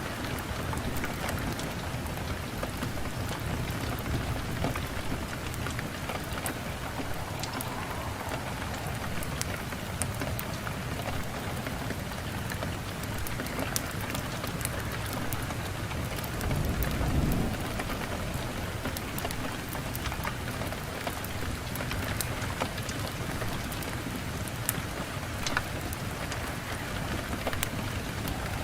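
Wood fire crackling in a fireplace: a steady hiss with scattered sharp pops and snaps, and a brief low rumble a little past the middle.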